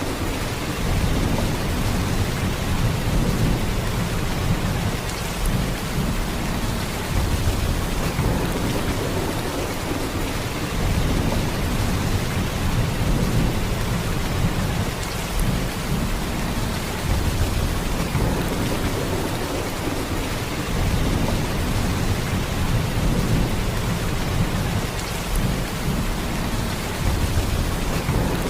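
Heavy rain falling in a steady downpour, with a deep low rumble under it that swells and eases every few seconds.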